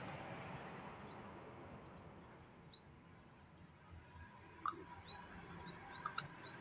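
Faint chirping of small birds: short high notes, in quick runs in the second half. A light clink sounds a little past the middle and two more near the end.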